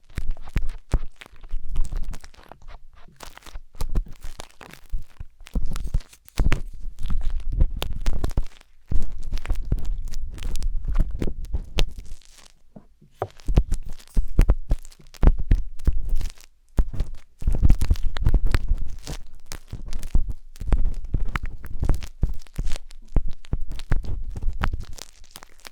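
Wooden tanghulu skewer scraping and rubbing inside the silicone ears of a 3Dio binaural microphone: close, dense crackly scratching with dull low thumps, pausing briefly twice.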